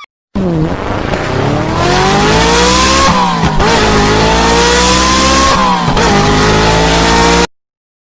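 Race car sound effect: an engine accelerating hard, its pitch climbing and dropping sharply twice as it shifts gear, over a loud rushing noise, then cutting off suddenly near the end.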